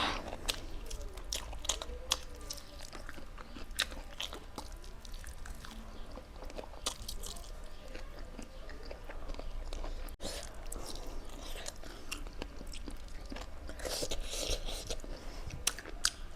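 Close-miked chewing and biting of meat, with frequent sharp crunches and clicks of bone and cartilage breaking between the teeth over softer wet chewing.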